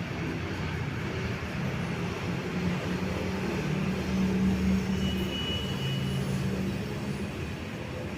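CMC Tecstar 48-inch industrial ceiling fan running at speed: a steady low motor hum under the rush of air from the blades, swelling slightly about halfway through.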